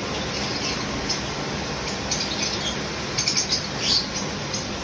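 Pressure washer spraying water with a steady hiss. Aviary birds chirp over it in short high calls several times, from about two seconds in.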